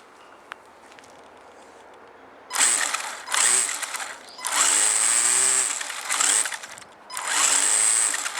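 Homemade engine-sound maker on an electric RC car, a small motor buzzing against an empty can, revving in five loud bursts with the pitch rising in each, after a couple of seconds of faint hiss.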